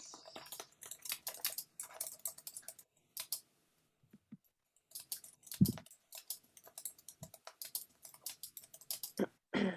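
Typing on a computer keyboard: irregular runs of key clicks, pausing for about a second and a half midway, with one duller thump shortly after.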